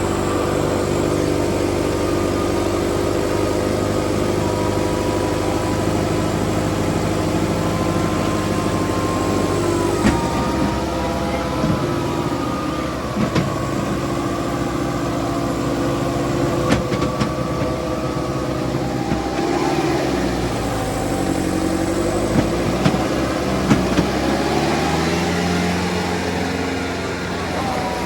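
Kubota 5501 tractor diesel engines running under load in a tractor tug of war. The engine note holds steady at first, changes about ten seconds in, then wavers up and down from about twenty seconds in.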